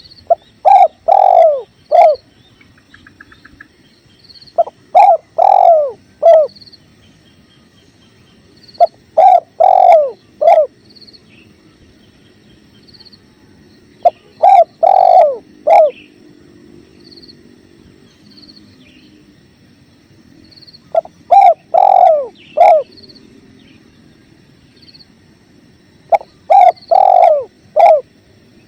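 Spotted dove (tekukur) cooing: six phrases, each of four or five bubbling coos, repeated every few seconds. Underneath runs a faint low rush of flowing river water.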